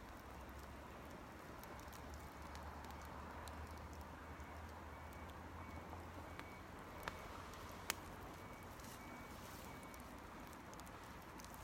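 Campfire burning quietly, with scattered sharp crackles and pops, the loudest about eight seconds in. A low steady hum sits underneath for the first half, then fades.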